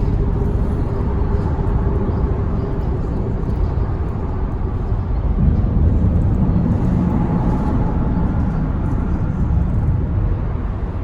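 Motor vehicle running: a steady low rumble with a faint humming tone that fades and another that drifts in pitch later on.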